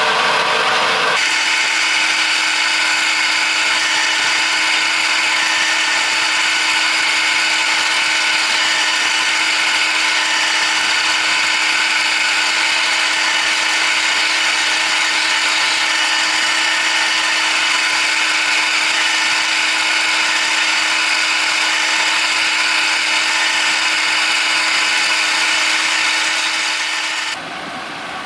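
A power tool running steadily. Its sound changes about a second in, and it stops shortly before the end.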